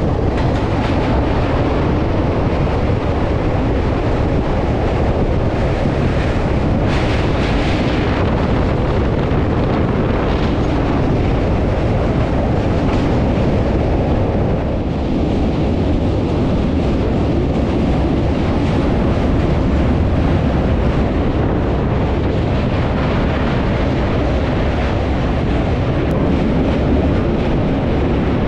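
Passenger train running across a long steel truss bridge, heard from its open doorway: a steady, heavy rumble from the wheels and the bridge under loud wind noise on the microphone.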